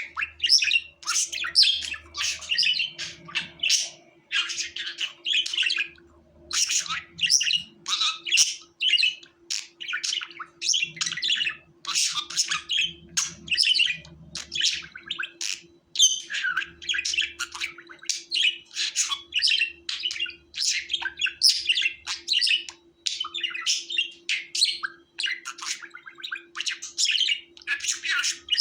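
A flock of budgerigars chirping and warbling, a busy stream of short high calls with brief pauses every second or two.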